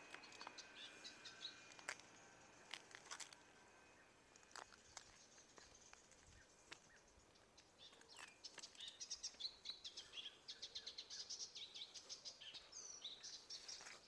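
Faint chirping of small birds, which thickens into a quick, busy run of chirps in the second half, with a few scattered clicks.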